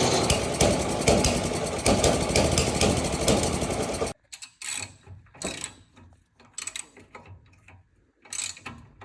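Husqvarna snowblower's small gas engine being cranked in a start attempt, a loud rapid mechanical churning that stops abruptly about four seconds in; the owner suspects bad, gelled fuel in the carburetor is keeping it from running properly. After that, only scattered light knocks and handling noises.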